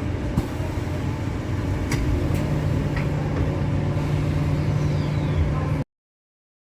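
Transperth electric train's sliding doors closing: a few sharp clunks as the doors shut about two seconds in, over a steady low rumble. A steady low hum follows, then the sound cuts off suddenly.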